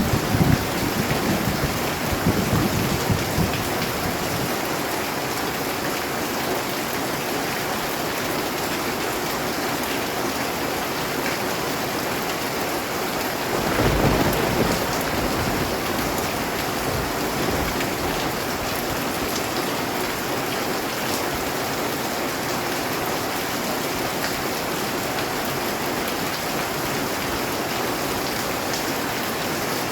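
Steady heavy rain hissing with rolling thunder: a low rumble dies away over the first few seconds and another brief low rumble swells up about halfway through.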